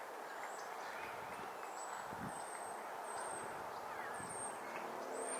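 High, thin bird call notes, short and slightly falling, repeated about twice a second over a steady background rush.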